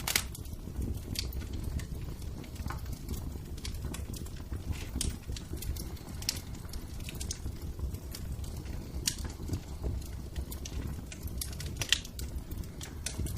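Wood fire crackling in a fireplace: a steady low rumble of flames with irregular sharp pops, the loudest just after the start and again near the end.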